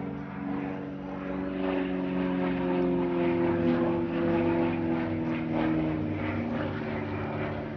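Extra 330LT aerobatic plane's Lycoming IO-580 flat-six engine and propeller flying past, growing louder towards the middle and then fading, its pitch falling steadily as it goes by.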